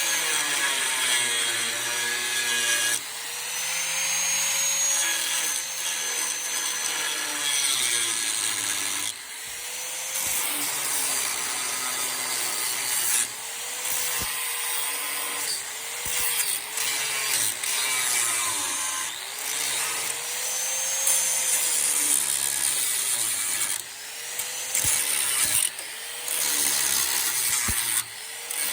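Handheld power tool cutting. Its motor pitch sags under load and picks back up over and over, with a few brief stops.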